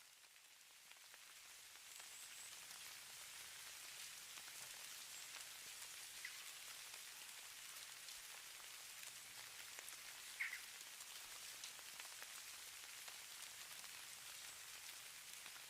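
Light falling snow or sleet pattering, a faint steady hiss with tiny scattered ticks, sold as the sound of falling snow. It fades up over the first two seconds, and one brief louder tick comes about ten and a half seconds in.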